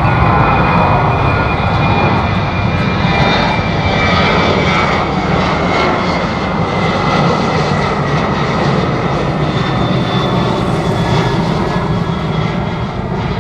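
Jet airliner's engines passing close by, a loud steady roar with a thin high whine that slides slowly down in pitch and eases a little near the end.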